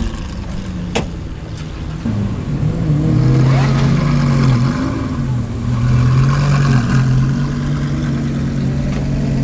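Sports car engine running at low revs, its pitch dipping and rising gently, getting louder about two seconds in. A sharp knock about a second in.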